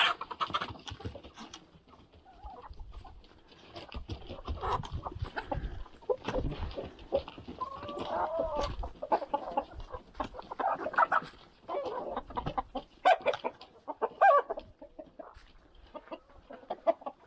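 Hens clucking and calling, a scatter of short calls coming and going, with small scratching and knocking noises among them.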